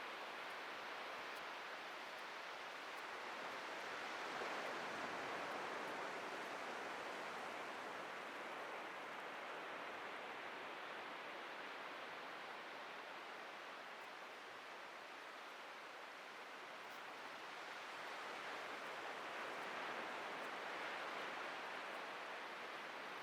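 Atlantic Ocean surf breaking and washing on a beach: a steady rush of waves that swells about four seconds in, eases off in the middle and builds again near the end.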